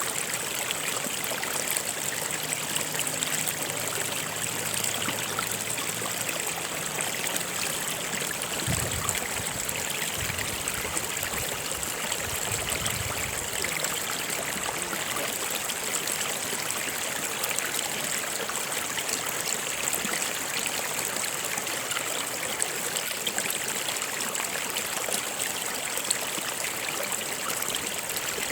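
Stream water flowing over rocks, a steady rush with trickling.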